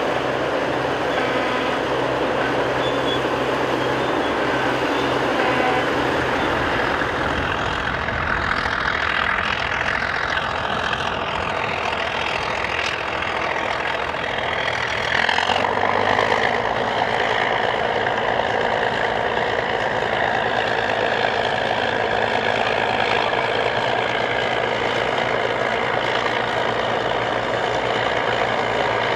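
Caterpillar crawler bulldozer's diesel engine running steadily, its note shifting and getting a little louder about halfway through.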